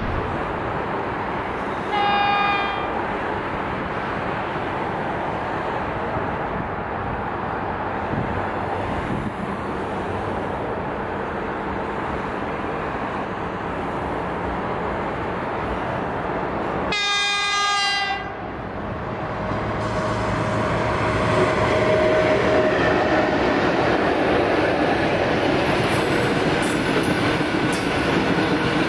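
EP1M electric locomotive sounding its horn twice as it approaches with a passenger train: a short blast about two seconds in and a longer one around the middle. Then the train passes, and the running noise of the locomotive and coaches on the rails grows steadily louder.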